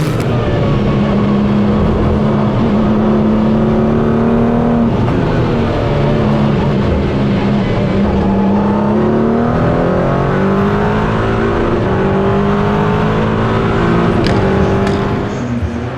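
Race car engines running at high volume; the engine note holds steady at first, then climbs steadily in pitch over the second half as a car accelerates.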